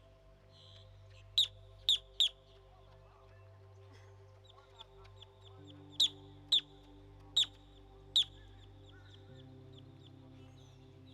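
A bird gives seven loud, sharp, short calls in two groups, three close together in the first few seconds and four more from about six to eight seconds in, with faint rapid high chirping between them. Under them soft ambient music plays held chords that change twice.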